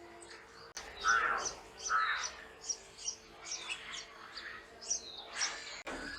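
Birds chirping: many short, quick high chirps, with two louder, lower calls about one and two seconds in.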